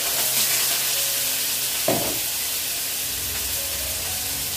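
Beef sizzling in hot oil in a frying pan, a steady spattering hiss. A single sharp clink about two seconds in.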